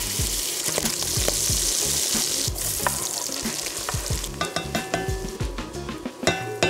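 Diced pork belly frying in melted butter in a pot: a steady, high sizzling hiss. About four seconds in, diced carrots and onion go into the pot from a board, and quick clicks and short ringing tones join the sizzle.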